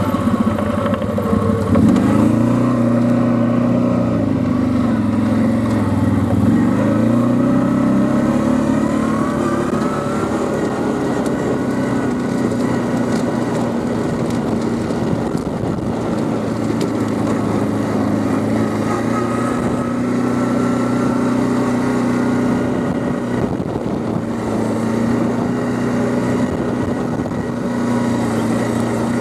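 Quad bike (ATV) engine running under way, its pitch dipping and rising several times over the first ten seconds as the throttle changes, then holding fairly steady.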